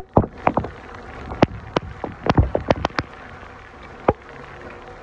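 Heavy rain falling, with sharp, irregular taps of large drops striking a hard surface close by, most of them bunched between about one and a half and three seconds in.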